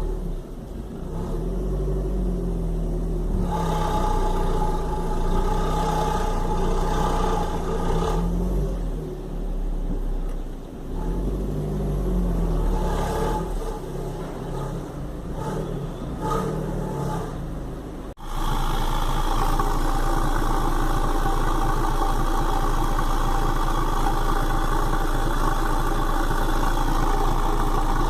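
Fiat Bravo 1.4 T-Jet turbo petrol engine and exhaust running, revved up and down twice, then, after a sudden cut, held at a steady speed with a constant tone over the exhaust note. This is the exhaust noise the owner calls strange; its cause is not given.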